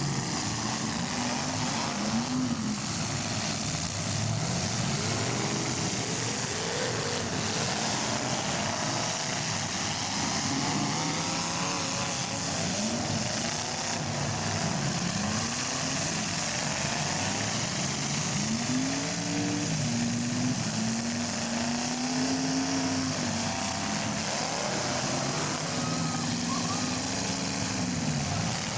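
Several demolition derby cars' engines revving up and falling back at once, their pitches rising and falling over one another above a steady rumble of exhaust noise.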